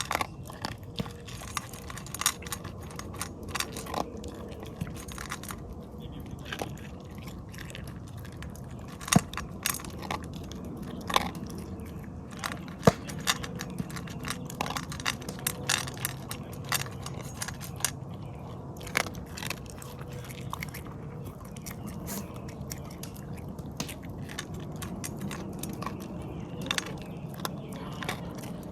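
Irregular sharp clicks and crackles, a few of them louder snaps, over a steady low background noise.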